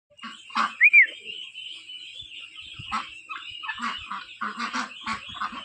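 Chickens clucking in a string of short repeated calls, with two loud, high, quick chirps about a second in.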